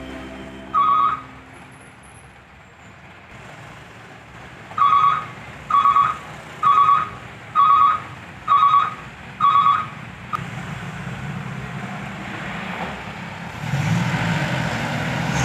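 Sand truck's reversing alarm beeping about once a second: one beep, a pause, then six more in a row. The truck's engine grows louder near the end.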